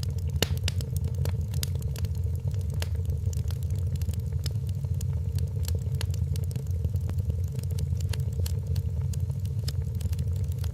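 Wood fire in a fireplace crackling, with many sharp snaps and pops scattered over a low steady rumble.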